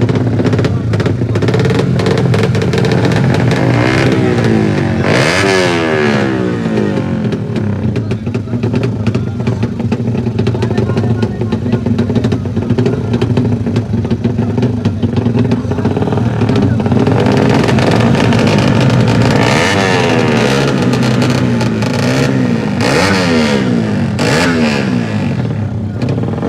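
Several racing motorcycle engines running and revving together. Their pitch repeatedly rises and falls, most strongly about five seconds in and again from about twenty seconds in.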